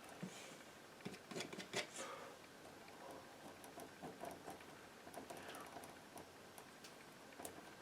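Palette knife dabbing and scraping paint: faint light taps and short scrapes, with a cluster of sharper clicks about one to two seconds in and a brief swish midway.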